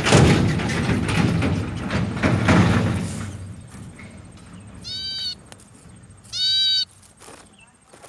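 Loud rumbling noise with a few knocks for about three seconds, then two short, wavering, high-pitched bird calls about a second and a half apart.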